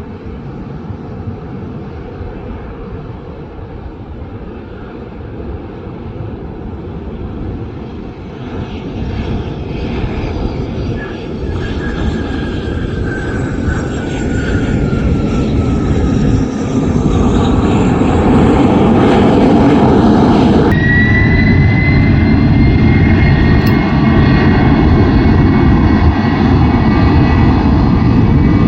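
Jet airliner engines at takeoff power, a rumble that grows steadily louder, with a whine that falls in pitch as the plane passes. About twenty seconds in, the sound changes abruptly to a louder, steady jet engine rumble with a high steady whine.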